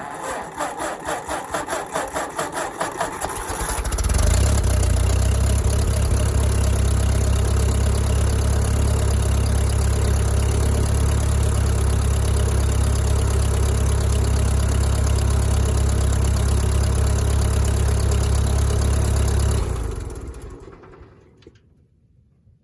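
1956 Ford 640 tractor's four-cylinder engine being cranked by the starter, turning over at about four beats a second on a weak battery. It catches about four seconds in and runs steadily, then is shut off near the end and winds down.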